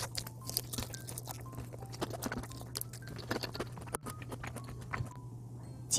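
Close-up chewing of crispy fried chicken: a running string of small crunches and wet mouth clicks, over a steady low hum.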